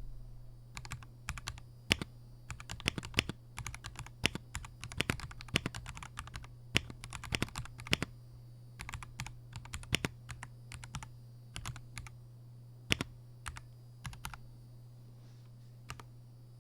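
Typing on an RK Royal Kludge M75 gasket-mounted mechanical keyboard with pre-lubed red linear switches: irregular keystroke clacks that thin out near the end.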